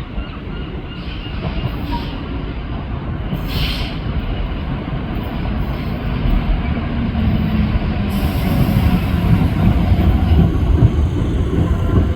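A train approaching through the station, its low rumble growing steadily louder. There is a short hiss about three and a half seconds in, and a whine that rises in pitch near the end.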